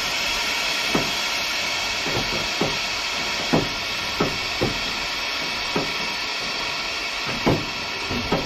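A steady loud hiss with about a dozen sharp knocks at uneven intervals, some with a short falling ring.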